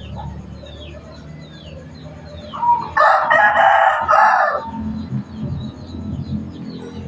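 A rooster crows once, a loud call of about two seconds starting near the middle. Short, falling chirps from a small bird repeat throughout.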